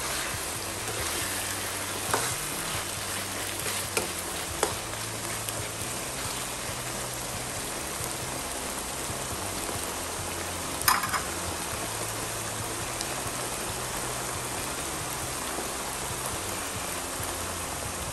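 Milkfish, carrot and potato relleno filling sizzling in a nonstick frying pan, stirred with a metal spoon. A few sharp clicks of the spoon against the pan, the loudest about eleven seconds in.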